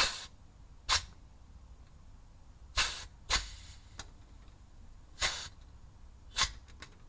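Pneumatic grease gun firing in seven short hissing bursts, roughly a second apart, pumping grease into a driveshaft joint that may be gummed up.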